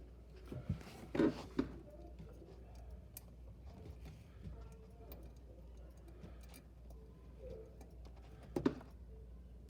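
Light handling clicks and rustles of hands fitting wire connectors onto a refrigerator compressor's terminal pins, over a low steady hum. A few brief voice-like sounds stand out about a second in and again near the end.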